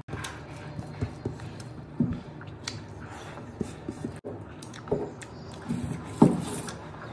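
A person eating rice and pork with the hand: chewing and lip smacks at an uneven pace, the sharpest smacks about two, five and six seconds in, over a low steady hum.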